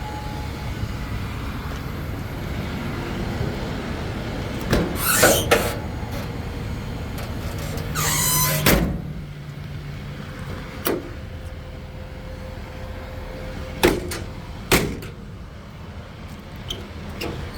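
Truck engine idling steadily under the noises of service-body compartment doors being worked. A door or latch squeaks twice, about five seconds in and again near the middle, and sharp latch clicks and door knocks follow later.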